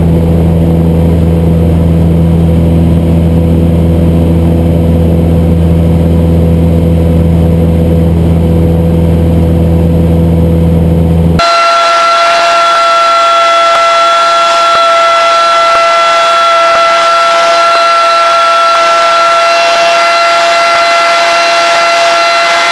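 Cessna 150's four-cylinder engine and propeller running at steady power, a loud, even drone in the cockpit. About eleven seconds in it cuts off abruptly to a steady high whine of several tones, which starts to fall in pitch at the very end.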